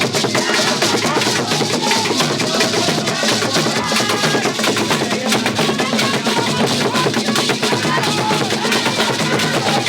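Several drums playing together in a fast, dense rhythm, with a wavering melody above the strikes.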